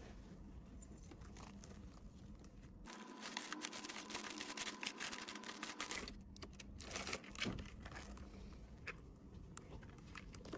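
Plastic packaging crinkling as an item is handled during packing. The crinkling is densest for about three seconds a few seconds in, then gives way to lighter rustles and a few small taps.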